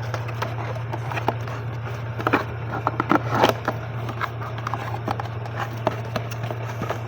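Cosmetic rack pieces handled and set down: scattered light clicks and taps with a few louder knocks in the middle, over a steady low hum.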